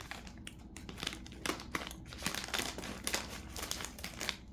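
Plastic snack bag crinkling in irregular rustles as it is handled and opened.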